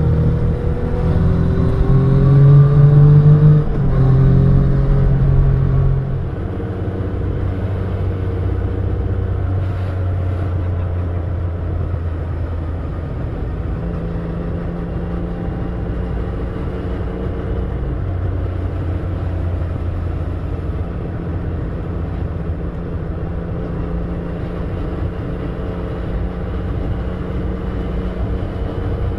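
Yamaha Tracer 900's three-cylinder engine under way, rising in pitch twice in the first four seconds as it pulls harder, then dropping back at about six seconds to a steadier, quieter running note with road and wind noise.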